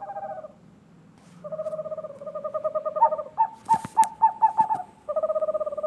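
Owl calling: long trilled notes held on one steady pitch, in three stretches. From about three seconds in, a run of shorter, higher notes joins them, and there are a couple of sharp clicks near four seconds.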